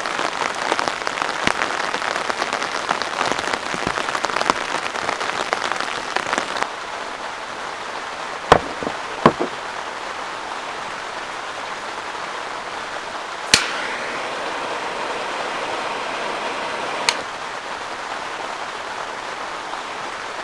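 Heavy rain pattering densely. About seven seconds in it changes to a softer, steadier hiss of rain, with a few sharp knocks and clicks.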